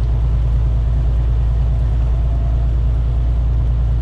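Semi truck cruising at about 55 mph on a wet road: a steady low drone of engine and tyre noise, with no Jake brake in use.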